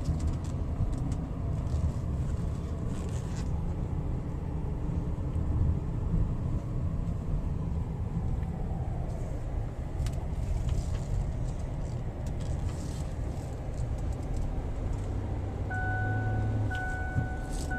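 In-cabin running noise of a 2007 Ford Edge's 3.5-litre V6 and its tyres, a steady low rumble while driving slowly, with a few light clicks. A faint steady tone comes in near the end.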